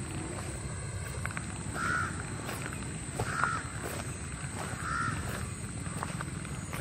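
A bird calls three times, each a short arched call about a second and a half apart, over steady low background noise.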